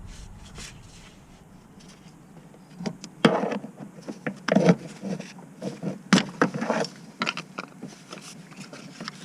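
Irregular knocks, clinks and short scrapes of work on a car, bunched together in the middle, over a faint steady hum.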